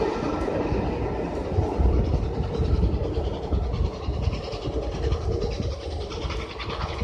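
Train of passenger coaches rolling away along the track as the last coach passes, a low rumble of wheels on rail that fades steadily as the train draws off.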